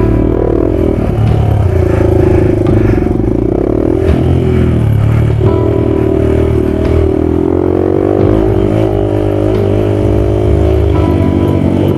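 Yamaha WR250F's four-stroke single-cylinder engine being ridden hard off-road, its pitch rising and falling again and again with the throttle.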